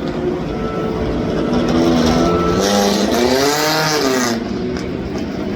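A competition car's engine running hard on a hill climb, its note rising and then falling about three to four seconds in, where it is loudest, as it goes past.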